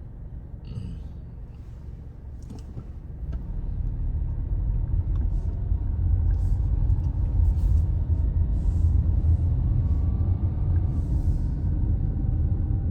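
Car interior rumble of engine and road noise, growing louder about three and a half seconds in as the car picks up speed, then holding steady.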